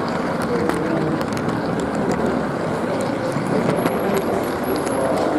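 G-scale garden model train running along its track, a steady rumbling rattle with scattered sharp clicks from the wheels and track.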